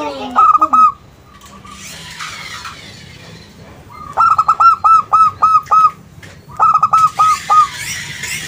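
Zebra dove (perkutut) cooing in runs of short, quick notes: a few just after the start, a longer run of about seven notes about four seconds in, and another short run near the seven-second mark.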